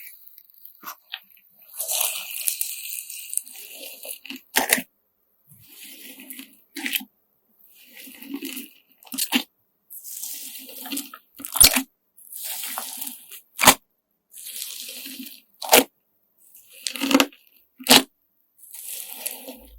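Slime mixed with coloured sand being squeezed and stretched by hand: a crunchy, squishy crackle about every two seconds, each stretch ending in a sharp pop.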